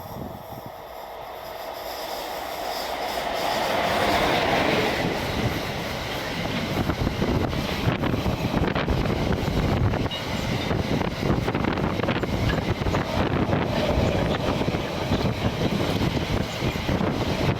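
A train approaching and passing through the station. Its rumble grows louder over the first few seconds, then holds as a steady roar of wheels clattering over the rails.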